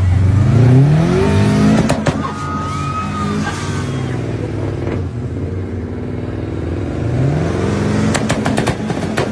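Drag-racing car engine revving hard, its pitch climbing steeply at the start and again about seven seconds in, with steady running between. A rapid series of sharp pops comes near the end.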